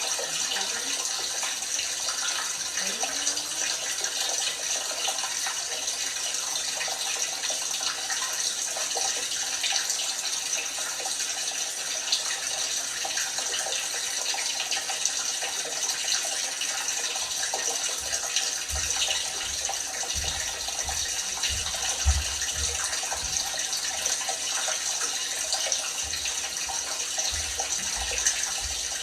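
LG washing machine filling with water: a steady hiss of water running into the drum. In the second half, short low thuds come and go over the hiss, one sharper than the rest.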